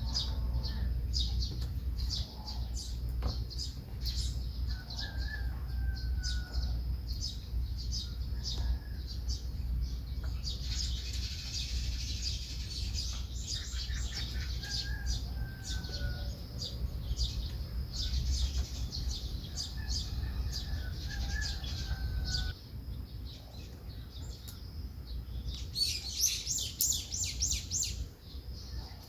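Small songbirds chirping and twittering in quick, high-pitched notes, with a few short falling whistles; the chirping thickens into a busy flurry about halfway through and again near the end. A steady low rumble runs underneath.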